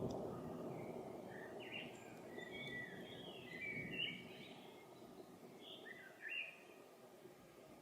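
Low rumble of distant thunder dying away, while a songbird chirps over it in two quick runs of short, high notes.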